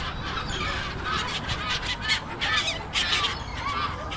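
Gulls calling, many short overlapping cries one after another, over a steady low background rumble.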